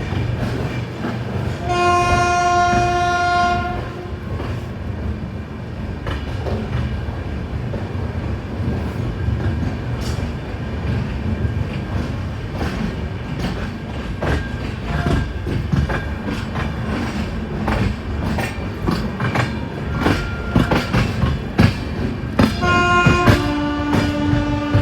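Express passenger train running, with a steady rumble and the wheels clicking over rail joints. A train horn sounds for about two seconds, about two seconds in, and another horn blast starts near the end.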